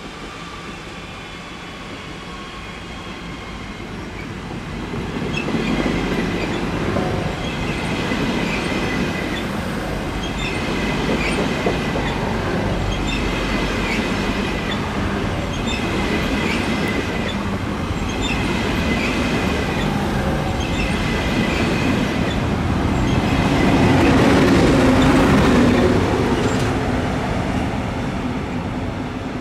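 ÖBB Railjet passenger train pulling out of the station and rolling past, its wheels clicking over rail joints in a regular rhythm, with some wheel squeal. The sound builds after a few seconds and is loudest about 24 seconds in.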